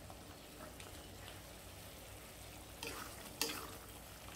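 Beef frying for black pepper beef in an aluminium wok, a faint steady sizzle; about three seconds in, a metal spatula scrapes the wok twice as the onion and chilli are stirred in.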